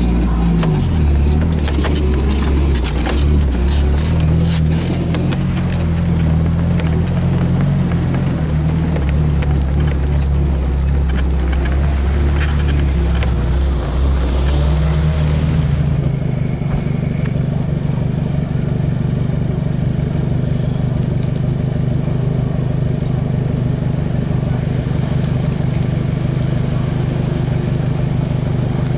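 4x4 engine running while driving, with knocks and rattles in the first few seconds. About sixteen seconds in the sound changes abruptly to a steadier engine note.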